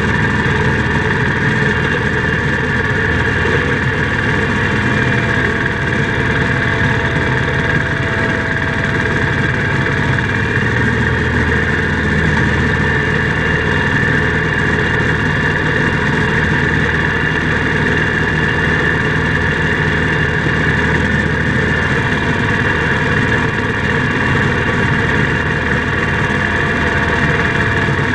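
International Harvester Cub Cadet 147 garden tractor's single-cylinder Kohler engine running steadily at an even speed.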